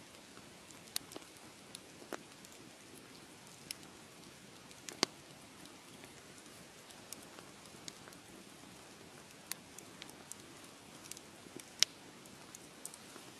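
Wood fire crackling: a soft steady hiss with irregular sharp pops and snaps, two of them much louder, about five seconds in and near the end.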